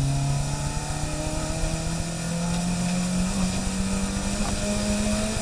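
A car engine running, its pitch rising slowly and steadily as it gathers revs.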